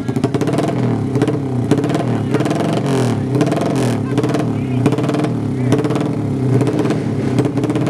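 Four-stroke 200cc underbone drag motorcycles revving, the engine pitch repeatedly rising and falling.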